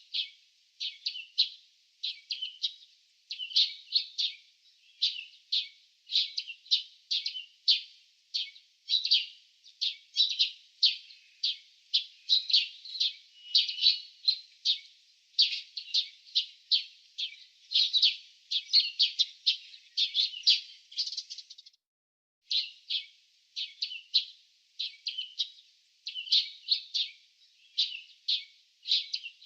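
Small birds chirping in quick clusters of short, high notes, one cluster after another with hardly a pause, and one brief break about two-thirds of the way through.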